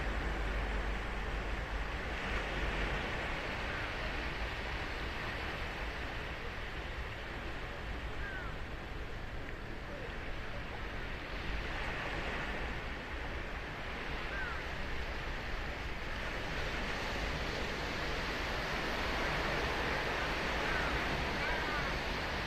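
Surf on a sandy beach: waves breaking and washing up the shore in a steady rush that swells and eases, with a few faint short chirps over it.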